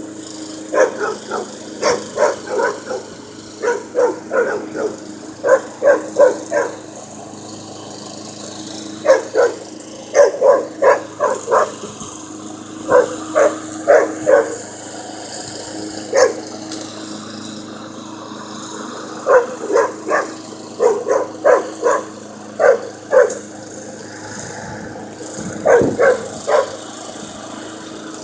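German Shepherd puppy barking in quick runs of several barks with short pauses between, over the steady hum of a running lawn mower.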